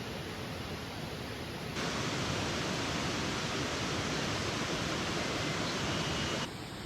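Steady rushing of a mountain stream. It turns abruptly louder and brighter about two seconds in and drops back just before the end.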